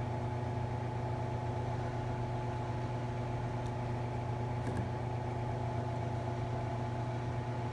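A steady, even mechanical hum with a few fixed tones in it, like a running motor or fan, with a couple of faint light ticks about four and five seconds in.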